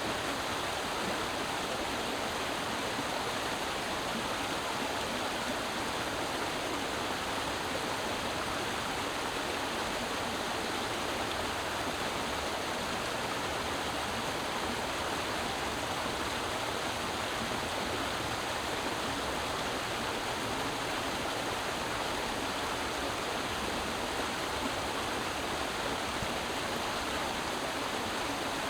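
Creek water flowing and babbling over rocks, a steady, even rush.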